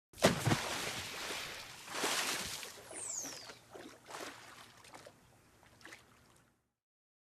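Water splashing and rushing in uneven surges that fade away, with a brief falling whistle about three seconds in.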